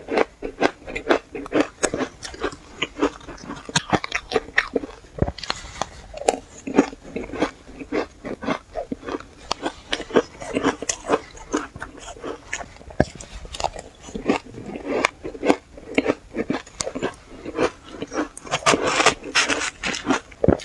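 Powdery shaved ice being bitten and chewed: an uneven run of crisp crunches, several a second.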